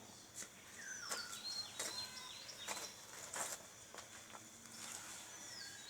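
Birds calling, with several short, high, falling whistled notes and a quick run of stepped chirps about two seconds in. A few brief scratchy sounds come between them.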